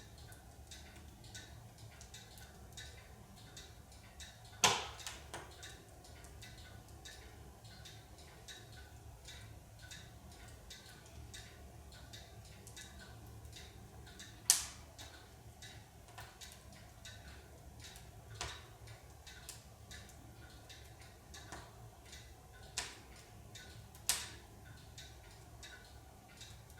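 Larch firewood burning in a wood stove, crackling with many faint irregular ticks and five sharp pops, the loudest about five seconds in and another near the middle.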